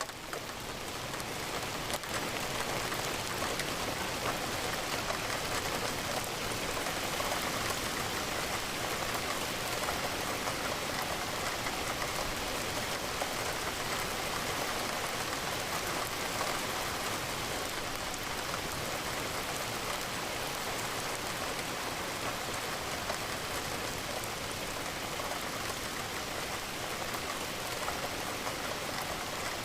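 Steady rain falling, an even, continuous patter of raindrops.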